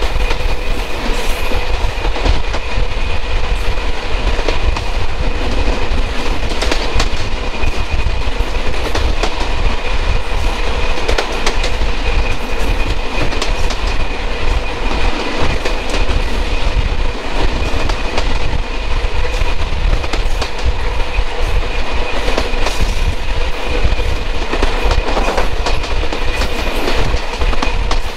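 Train running at speed, heard from on board: a steady rumble of wheels on the rails with repeated clicks from the track, and a faint steady high whine.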